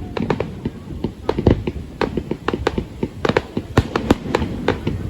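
Fireworks going off: a rapid, irregular run of sharp bangs and pops over a continuous low rumble.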